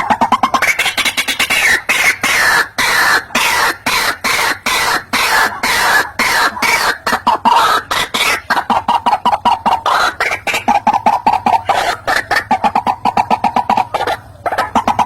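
White-breasted waterhen (ruak-ruak) calling, used as a trapping lure: an unbroken run of short repeated notes, several a second, getting faster in the second half, with a brief break near the end.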